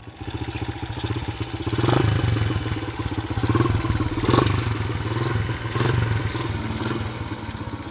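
Small single-cylinder four-stroke pit bike engine running, revved up several times.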